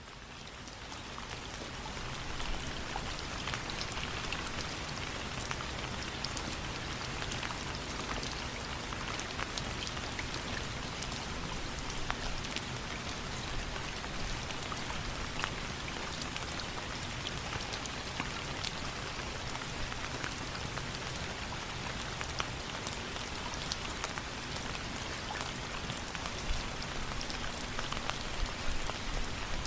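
Steady rain falling, an even hiss with many scattered sharp drop ticks, rising in level over the first couple of seconds and then holding steady.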